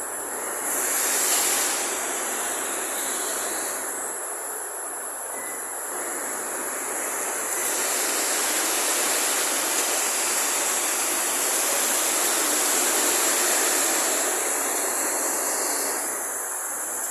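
Robotic arc welding: a steady hiss over constant shop machinery noise. The arc hiss comes in briefly about a second in, then runs for about ten seconds from the middle before stopping.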